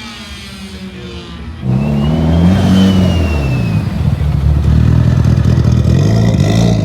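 A car engine revving hard. It comes in loudly about a second and a half in, and its pitch rises and falls several times as the throttle is worked.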